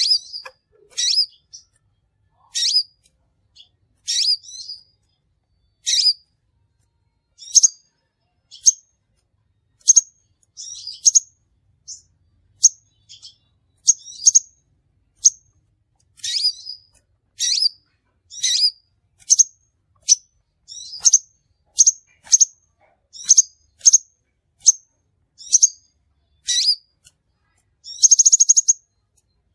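Crimson sunbird calling: short, sharp, high-pitched chirps repeated at uneven intervals, about one or two a second, with a brief buzzy trill near the end.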